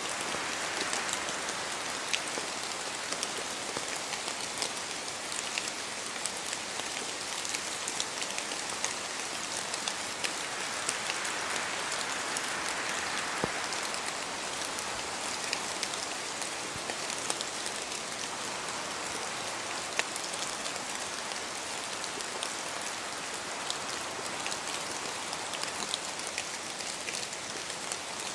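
Steady rain falling on foliage, a constant hiss with many small scattered drop ticks and slow, gentle swells in intensity.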